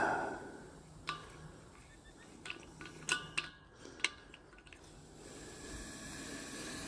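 Small hard objects clinking and knocking a handful of times as tools are shifted about on a shop bench. About five seconds in, a steady hiss starts and keeps going.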